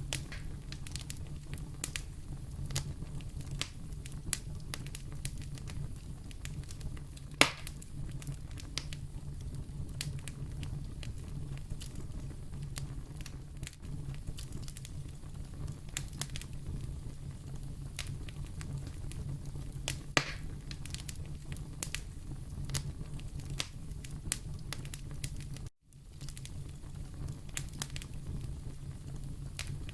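Wood fire in a fireplace, crackling steadily over a low rumble, with frequent small pops and two louder ones. The sound cuts out for a split second near the end.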